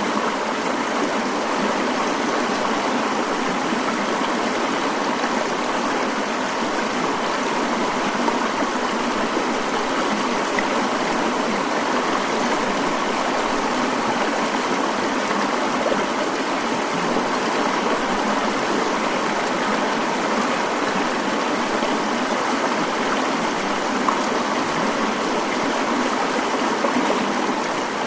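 Mountain stream flowing in a steady, even rush of water with no breaks.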